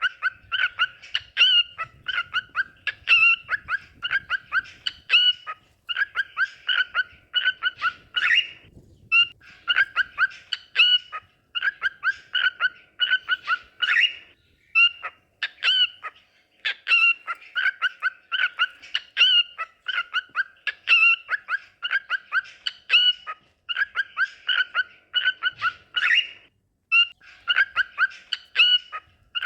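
Cockatiels singing: rapid strings of short chirping whistle notes in phrases of a second or two, with brief pauses between phrases.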